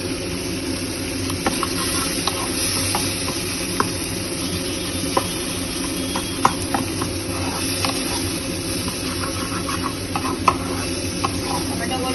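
Chopped tomatoes and onions sizzling in oil in a kadai, with a spatula stirring and scraping against the pan in scattered clicks and taps.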